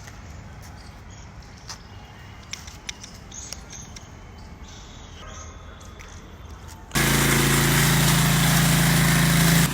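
Diesel-engine car washing machine coming on suddenly about seven seconds in and running loudly and steadily with a strong hum and hiss. Before that there are only light scattered clicks.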